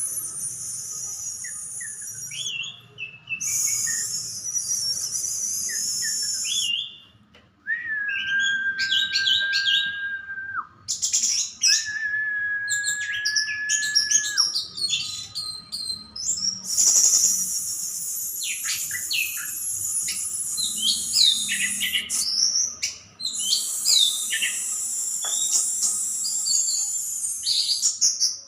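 Orange-headed thrush singing a varied song of quick, sliding notes. About a third of the way in it gives two long, level whistles, one after the other. In several stretches a steady high hiss runs under the song.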